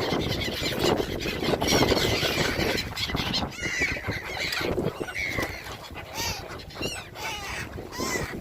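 A flock of migratory gulls calling in many short, high cries over a steady rush of wind and water.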